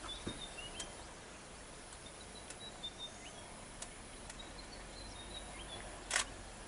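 Faint open-air ambience with scattered short, high bird chirps, a few faint ticks, and one sharp, loud click about six seconds in.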